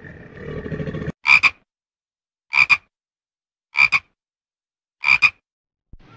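Toad calling: four short croaks, each a quick double note, about one every 1.3 seconds. A low rumbling noise fills the first second before the calls begin.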